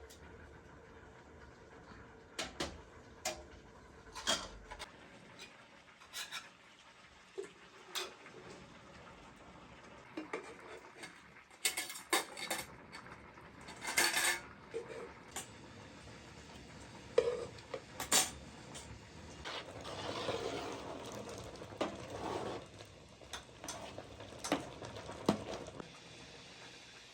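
Cooking utensils and pots clinking and knocking at irregular intervals, with a stretch of scraping or stirring about two-thirds of the way through.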